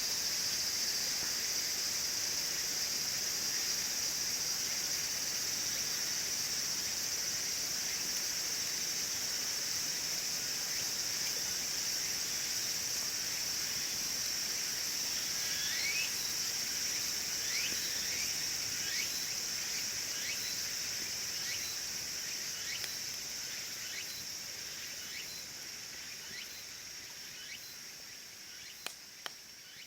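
Steady high-pitched chorus of insects, cricket-like, with scattered short chirps in the middle stretch and a couple of sharp clicks near the end; the whole sound fades out gradually over the last few seconds.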